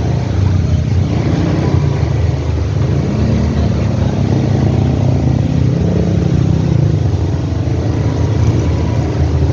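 A motor vehicle's engine running steadily, its pitch rising about three seconds in and easing back down a few seconds later.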